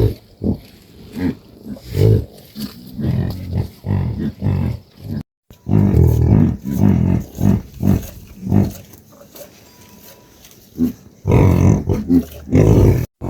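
Livestock calling: short, low-pitched, irregular calls, one after another, with a brief total break about five seconds in.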